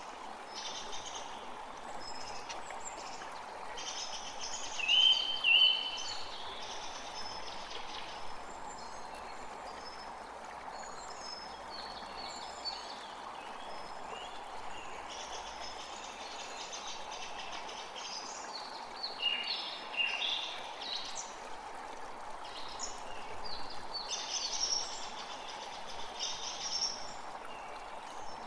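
Several songbirds chirping and calling in short, scattered notes over a steady, even background rush. The loudest is a pair of short, clear notes about five seconds in.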